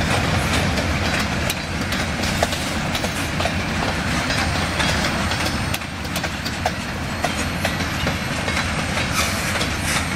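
Freight train's covered and open hopper cars rolling past close by: a steady rumble of steel wheels on rail, with repeated clicks and clacks as the wheels cross rail joints.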